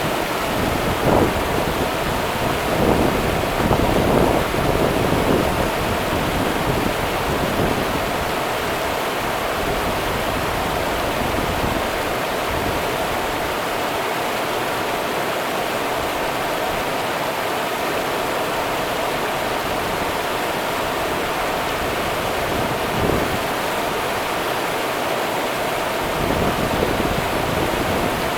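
The Rio Grande flowing: a steady rush of running water, with a few brief louder splashes about a second in, around three to five seconds in, and again near the end.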